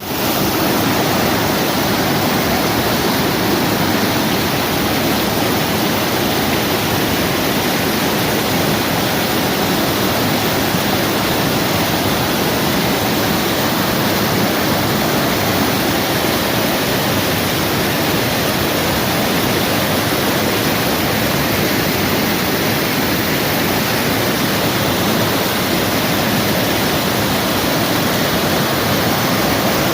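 Waterfall crashing: a loud, steady rush of falling water with no let-up.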